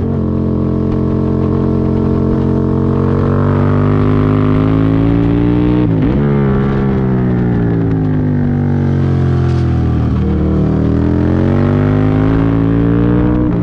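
Aprilia Tuono V-twin motorcycle engine running hard on track. The note rises and falls as the bike accelerates and slows, with a brief sharp dip in revs about six seconds in, over wind rush.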